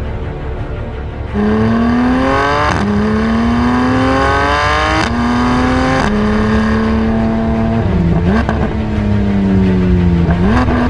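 Porsche 911 GT3 naturally aspirated flat-six with a Fabspeed aftermarket exhaust, accelerating hard: the revs climb through three quick upshifts, then hold, dip, fall away and rise again near the end.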